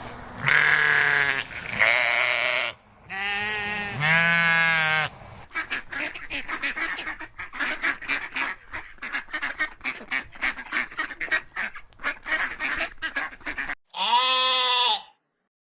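A sequence of farm animal calls: a few long, pitched calls in the first five seconds, then a long run of rapid short calls several per second, and one more long call near the end.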